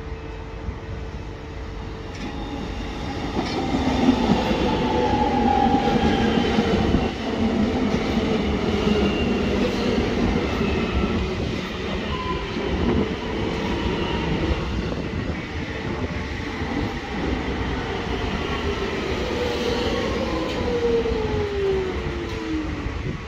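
Electric suburban train running into the platform alongside, wheels rumbling on the rails, its motor whine falling in pitch as it slows near the end.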